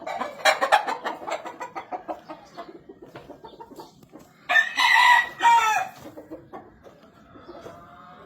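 Gamefowl rooster crowing once about halfway through, the loudest sound, in two quick parts. Scattered clucking and clicking from the chickens comes before it, and quieter clucking follows.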